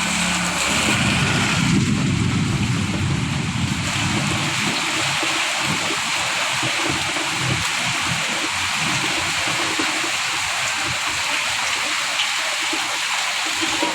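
Heavy rain pouring down in strong wind: a steady rush of falling water with a deeper rumble underneath that rises and falls.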